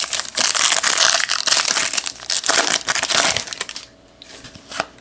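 A trading-card pack wrapper being torn open and crumpled, a loud dense crinkling for the first three and a half seconds. It gives way to a few quieter rustles and clicks as the cards are handled.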